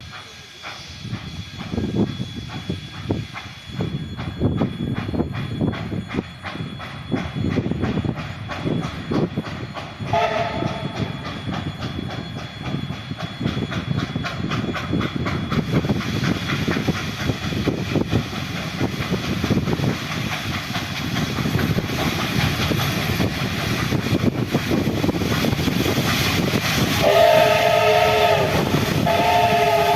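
Soviet L-class steam locomotive L-2035 running with a train, its wagon wheels clattering in a steady rhythm over the rail joints and growing louder toward the end. Its chime whistle sounds a short chord about ten seconds in, then two longer blasts near the end.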